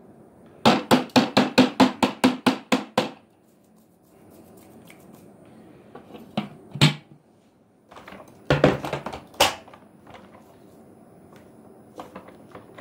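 A fast run of about a dozen hard knocks, roughly five a second, then a couple of single knocks and another short burst of knocks.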